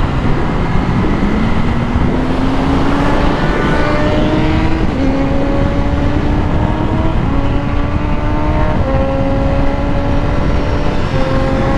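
Motorcycle engine pulling hard and shifting up through the gears: its pitch climbs and then drops about four times, with steady wind and road rush underneath.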